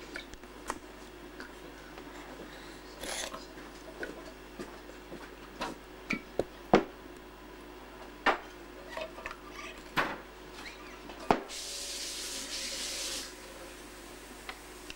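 Scattered light knocks and clicks of small objects being handled, with a spell of hissing lasting about two seconds near the end.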